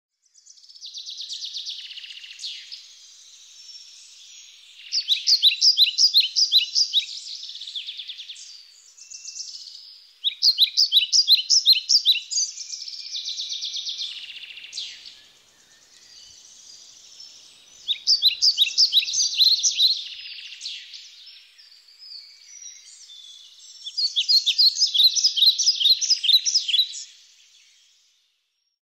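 A songbird singing: four loud phrases of fast repeated notes, several seconds apart, with softer high twittering in between.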